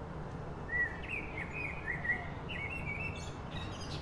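A small songbird singing a short phrase of quick chirping notes, with a few higher notes near the end, over a steady low background rumble.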